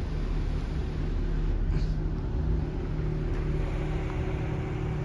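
2006 Infiniti FX35's 3.5-litre V6 idling, a steady low hum, with a faint short click about two seconds in.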